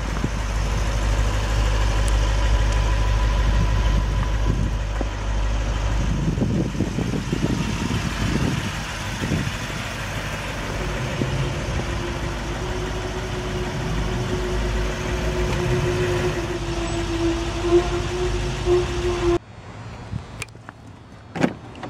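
A car engine idling with a steady low rumble, which cuts off abruptly near the end, followed by a couple of sharp clicks.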